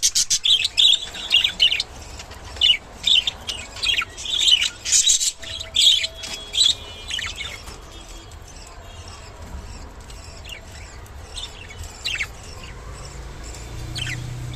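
Budgerigar chirping in short high calls, coming thick and fast for the first half, then only a few scattered chirps.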